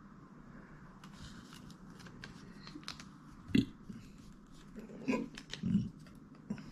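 Small clicks and handling noises, with a few louder short knocks about halfway through and near the end.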